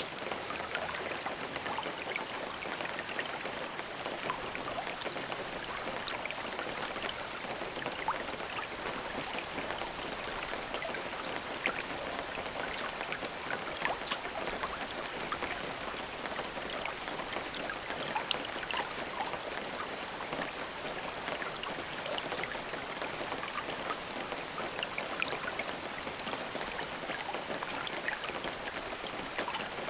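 Steady rain falling, an even hiss dotted with many close individual drop ticks and no thunder.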